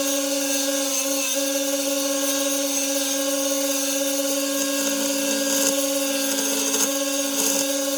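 Belt sander running with a steady motor hum and the hiss of the abrasive belt. From about halfway in, work is pressed against the belt in a few passes, adding a rougher grinding sound.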